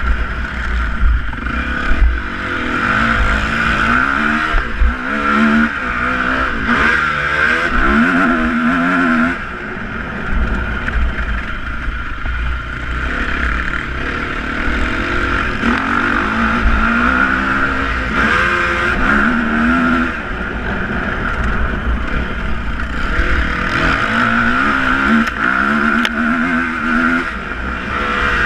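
Motocross bike engines revving up and down again and again, in several bursts of climbing and falling pitch, over a steady engine drone.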